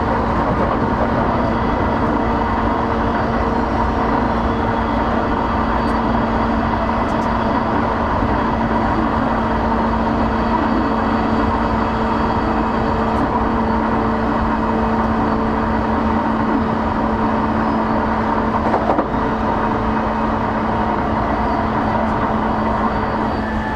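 Interior running sound of a JR East E233 series 8000 electric train: a steady rumble of wheels on the track with a constant hum from the running gear while cruising. There is a small knock about three-quarters of the way through. Near the end, new tones that shift in pitch come in.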